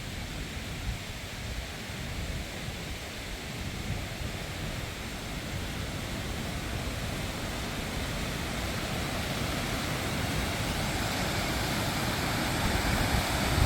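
Gusty wind from an approaching thunderstorm blowing across the microphone: a low, uneven rumble under a rushing hiss that slowly grows louder.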